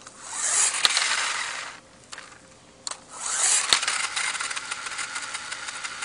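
Friction-motor toy tractor whirring twice as it is pushed and its flywheel winds up, with a sharp click in each whir. The second whir rattles on and slowly fades as the toy runs on under its own power.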